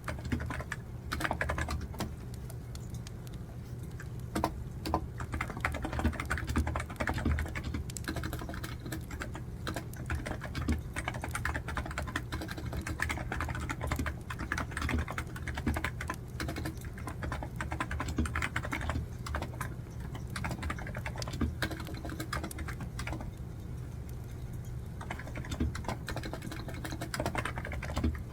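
Typing on a computer keyboard: a continuous, irregular stream of keystrokes over a steady low hum.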